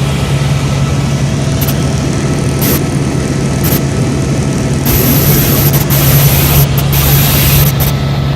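Helicopter in flight: a loud, steady drone of rotor and turbine engine with a constant low hum and a rushing hiss, and a high thin whine that drops in and out.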